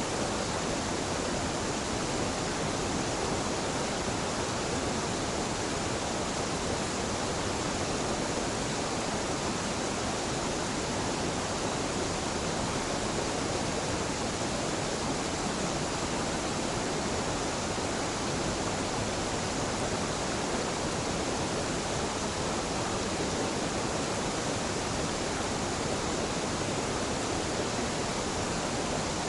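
A small mountain waterfall pouring steadily into a stream, a constant, even rush of falling water.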